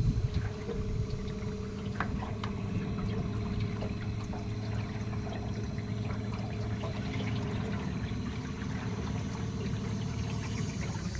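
Newport 36 lb thrust electric trolling motor running at speed 5, a steady hum, with water gurgling and trickling along the boat's aluminum hull.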